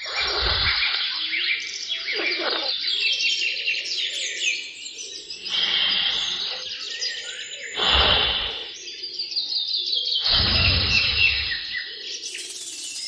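Songbirds chirping and singing in quick, repeated notes, broken by several short rushes of noise.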